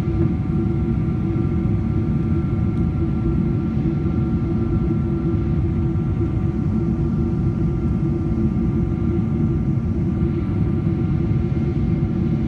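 Steady cabin noise of a Boeing 777-200ER in flight: a constant deep rush of air and engine sound from its Pratt & Whitney PW4090 engines, with a few faint steady whining tones above it.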